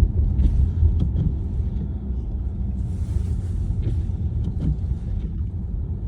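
Steady low rumble of a car driving, heard from inside the cabin, with a brief hiss about three seconds in.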